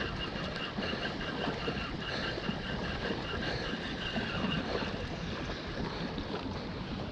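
Water sloshing and lapping around a swamped canoe, with wind rumbling on the microphone. A faint steady high tone runs through it and fades out about four seconds in.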